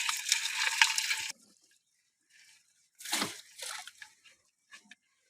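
Water splashing and streaming in a hissing rush that cuts off suddenly, followed by a single splash and a few scattered drips.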